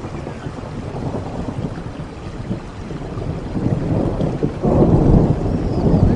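Steady rain with a low, rolling rumble of thunder underneath that builds and grows louder about three-quarters of the way through.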